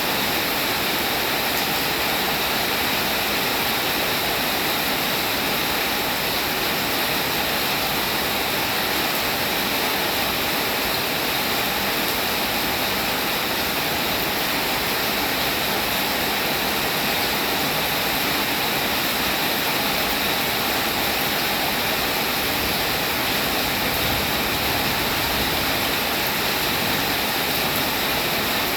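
Steady, even rainfall, a dense constant hiss of drops with no single drops standing out.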